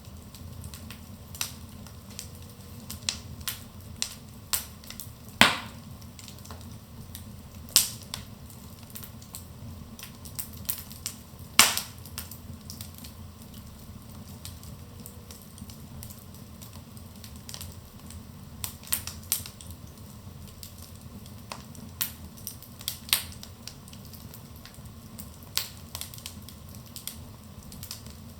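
Wood fire burning in a fireplace, crackling with sharp pops at irregular intervals over a steady low rush of flame. The loudest pops come about five and twelve seconds in.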